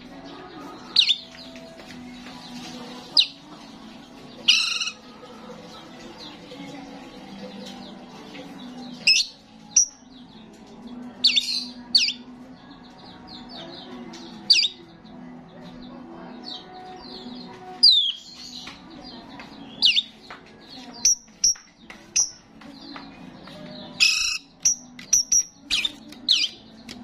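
Starling calling: short, sharp, high whistles and squawks at irregular intervals, coming in quicker runs near the end, over a steady low hum.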